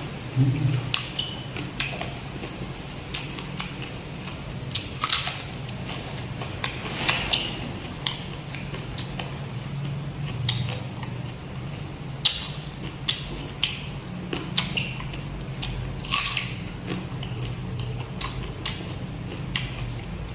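Close-miked eating: irregular crunchy bites and chewing, with many sharp crackles, over a steady low hum.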